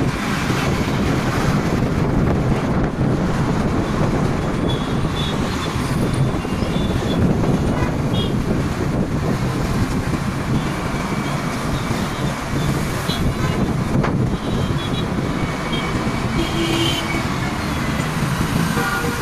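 Steady wind and road rumble of a bike moving through traffic, with several short horn toots from other vehicles.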